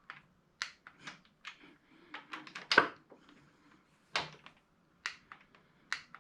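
Irregular clicks and light knocks of hand tools working on a small engine, a dozen or so separate strikes with short quiet gaps, the loudest a bit under three seconds in.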